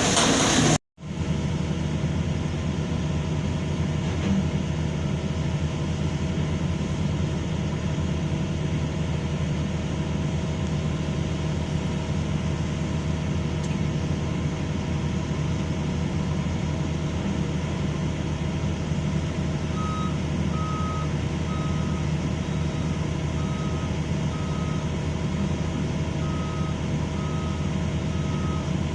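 Heavy diesel engine of an excavator running steadily under load. Starting about two-thirds of the way in, a travel/backup alarm gives a steady series of high beeps, roughly one a second, which signals the machine is moving.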